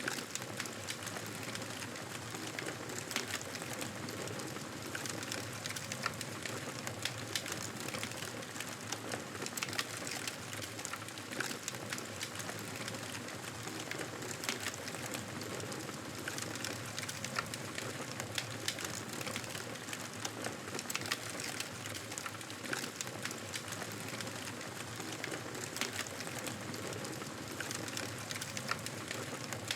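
Fire crackling in a fireplace: a steady hiss with many small irregular pops and snaps throughout.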